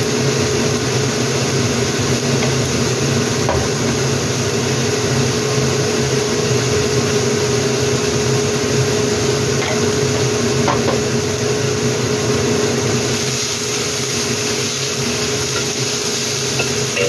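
Chayote strips frying in a wok over a gas burner: a steady hum and sizzle, with a few faint clinks of utensils against the pan.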